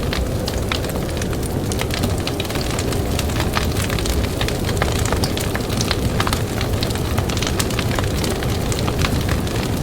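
Campfire crackling, with many irregular sharp pops and snaps over a steady low rush of blizzard wind.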